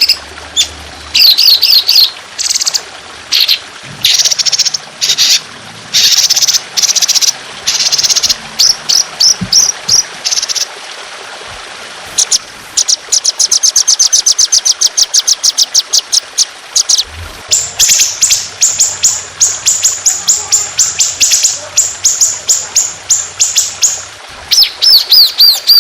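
A trotolan bird singing loudly: short chirping phrases, then long fast runs of rapidly repeated sharp notes, a few per second. A faint trickle of water runs underneath.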